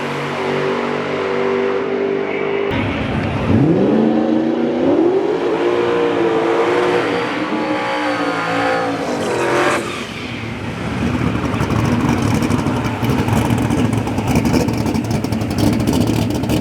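Drag racing car engines: a steady engine note, then after an abrupt change an engine revving up in a rising, wavering pitch for several seconds, giving way about ten seconds in to a rougher, noisier engine sound.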